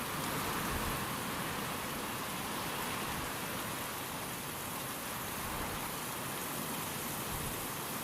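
Steady rain falling, an even hiss with no distinct drops or gusts standing out.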